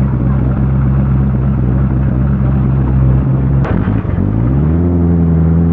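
Koenigsegg CC8S supercharged V8 running at a steady speed. About three and a half seconds in there is a sharp click. The revs then rise smoothly over half a second and are held steady at a higher pitch.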